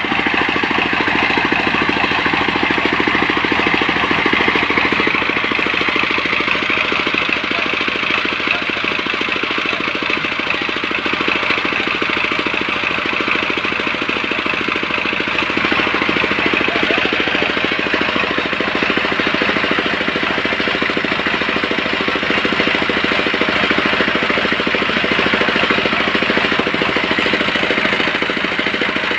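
Portable sawmill's engine running steadily, with a continuous high whine over the engine note.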